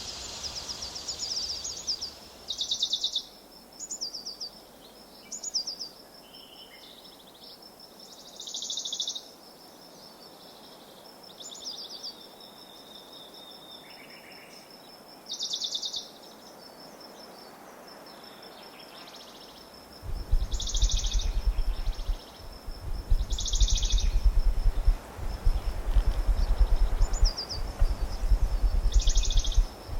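A bird repeating short, high chirping phrases every few seconds over a faint steady high tone. About two-thirds of the way in, a loud low rumble joins and keeps going.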